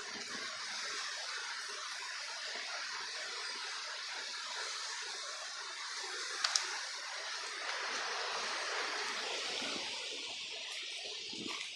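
Strong wind rushing steadily, a sustained hiss with one brief sharp click about six and a half seconds in.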